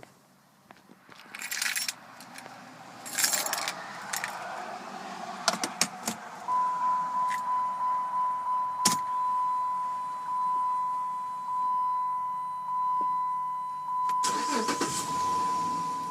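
Keys jangling and a few sharp clicks, then a car's electronic warning chime: one steady high tone repeating in decaying pulses about once a second, with another jangle near the end.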